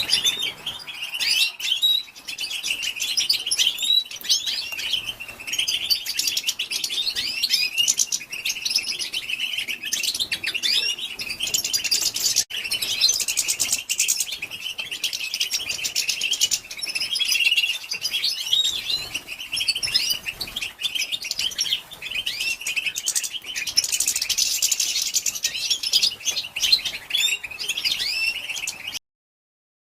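Female European goldfinch's 'batbata' twittering: a dense, rapid run of chirps and short twittered trills, the call that excites male goldfinches to sing. It cuts off abruptly just before the end.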